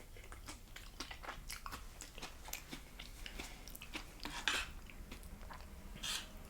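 Chewing a tostada up close: the crisp fried corn shell crunching in the mouth in irregular crackles, with louder crunches about four and a half seconds in and again near the end.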